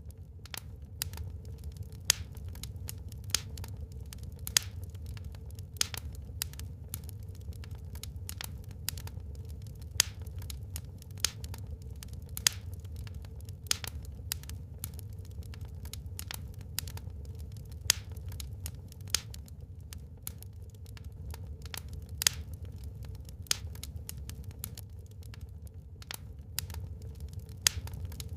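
Wood fire burning in a fireplace, crackling with frequent irregular snaps and pops, a few of them sharp and loud, over a steady low rumble.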